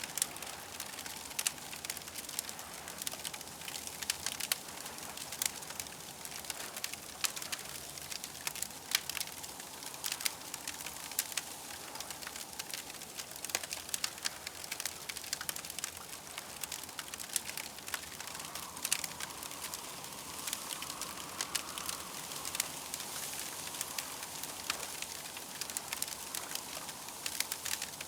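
Campfire crackling, with frequent irregular sharp pops over a steady soft hiss.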